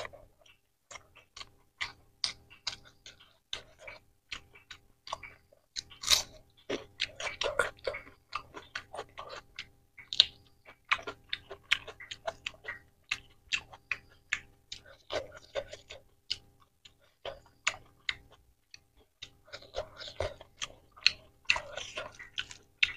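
Close-up chewing of a mouthful of rice and egg curry eaten by hand: a dense run of short wet clicks and smacks from the mouth.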